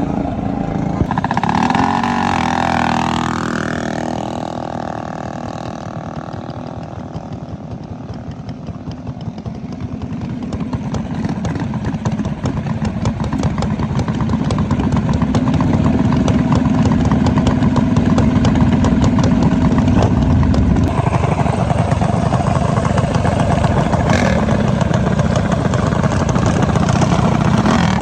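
Minibike engine running: its pitch drops sharply a couple of seconds in, it goes quieter for several seconds, then grows louder and holds a steady run for the rest.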